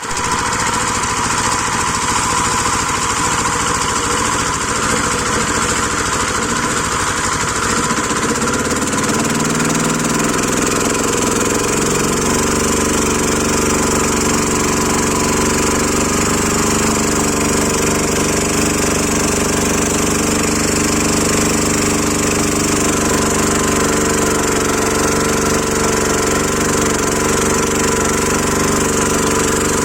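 Small engine of an agricultural watering boat running steadily. Its pitch shifts about ten seconds in, then holds an even drone.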